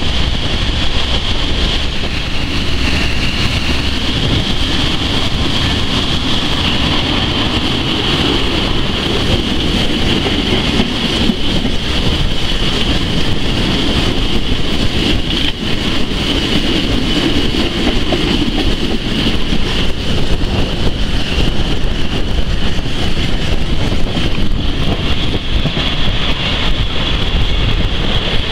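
Historic passenger train running along the rails, heard from an open carriage window: a steady low rumble of the wheels with wind noise and a steady high-pitched whine throughout.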